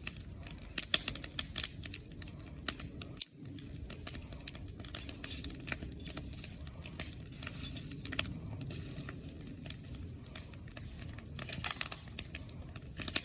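Bonfire of bamboo and pine crackling: dense, irregular sharp pops and snaps over a low steady rumble.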